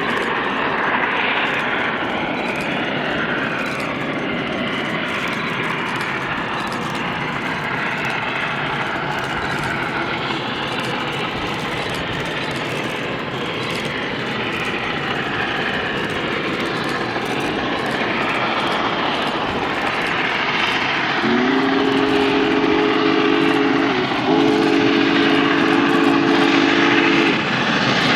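Union Pacific Big Boy 4014's chime steam whistle sounds two long blasts from about two-thirds of the way in, each sliding up in pitch at its start, and a third begins just at the end. Under it runs a steady loud noise of the moving train.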